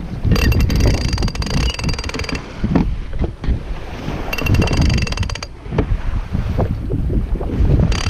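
Wind buffeting the microphone aboard a small sailboat under way, with water noise, and three spells of rapid mechanical ratcheting clicks from the boat's hardware, the longest near the start.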